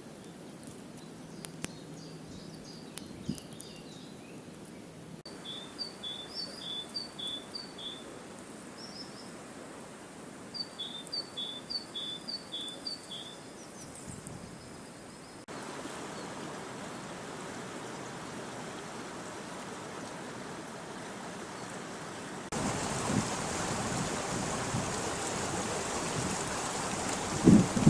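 A songbird singing two short phrases of about five quick, clear notes each, over the steady rush of river water that steps up abruptly twice and is loudest near the end. A few sharp clicks near the start.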